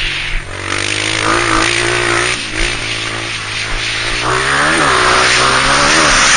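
Honda CRF230F dirt bike's single-cylinder four-stroke engine, revving up and easing off repeatedly as the bike is ridden, its pitch rising and dropping several times over a steady hiss.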